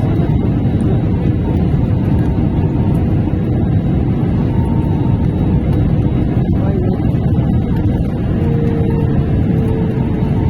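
Steady low rumble of a vehicle in motion, heard from inside, with a faint steady whine over it and a second whine that sets in and slowly falls in pitch near the end.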